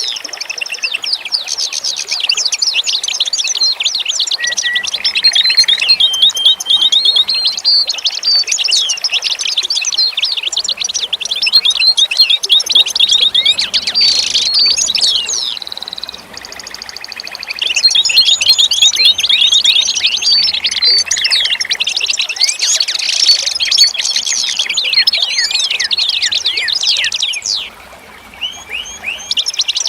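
Many songbirds chirping and singing at once in a dense chorus of rapid, high-pitched chirps and trills, easing briefly about halfway through and again near the end.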